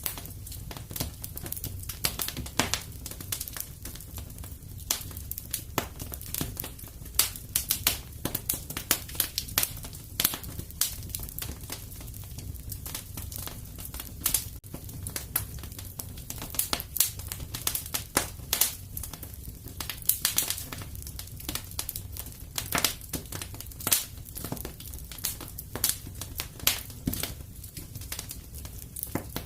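Wood fire burning in a fireplace, crackling and popping irregularly with many sharp snaps over a steady low rumble of the flames.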